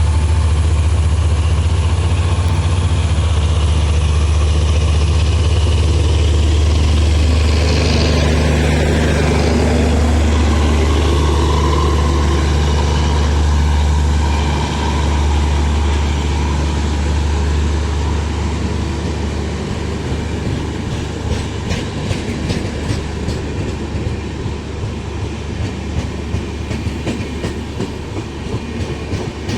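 A train passing through a station: a steady low locomotive drone for the first half, fading as the coaches follow with a rhythmic clickety-clack of wheels over rail joints.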